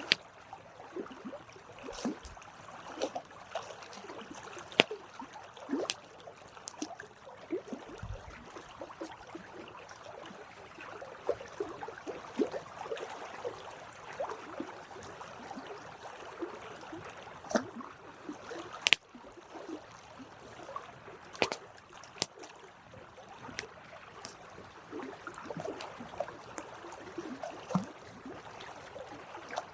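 Campfire crackling: burning wood snapping and popping irregularly over a soft steady hiss, with one sharp, loud pop about nineteen seconds in.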